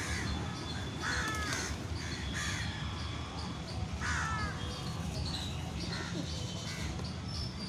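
Crows cawing, a series of short harsh calls about once a second, over a steady low hum.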